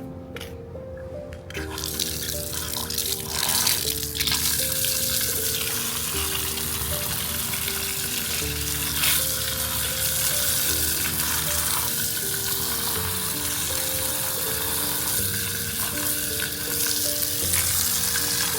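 Steady hiss of running or splashing water over background music, starting about a second and a half in.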